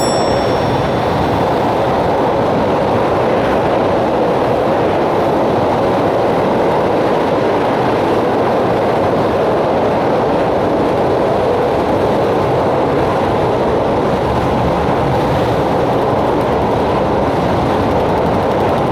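A JR Hokkaido 721 series electric train running at steady speed on the line, heard from inside the car: an even, loud rushing rumble of wheels and track with no change in pace.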